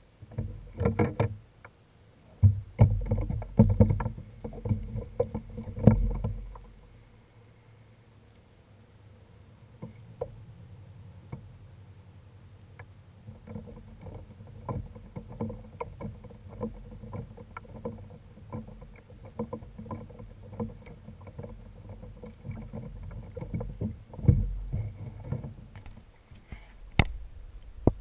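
Kayak on the water: irregular knocks and thumps against the hull in the first six seconds and again about 24 seconds in, with a steady low rush and small ticks between.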